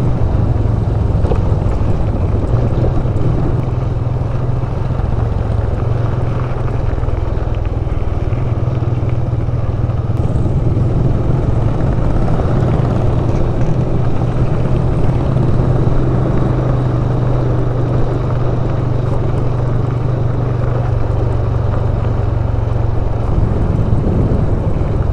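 Motorcycle engine running at a steady cruise while riding, with a low, even hum and rushing road and wind noise.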